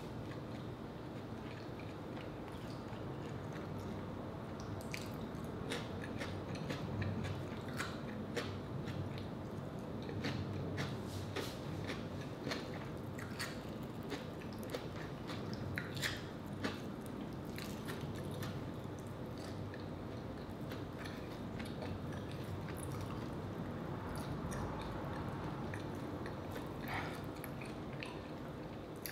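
Close-up eating sounds of rotisserie chicken: chewing with wet mouth clicks and squishes, and the chicken being pulled apart by hand.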